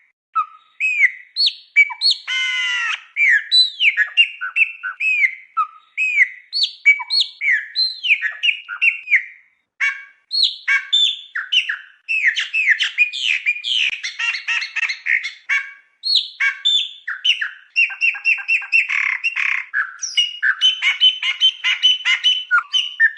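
A songbird singing a long, varied song of quick chirps, whistled slurs and trills, with a harsh buzzy note about two seconds in.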